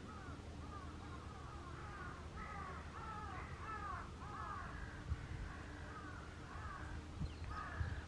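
Birds calling: a rapid, overlapping series of short arching calls that grows busiest a couple of seconds in, then thins out near the end.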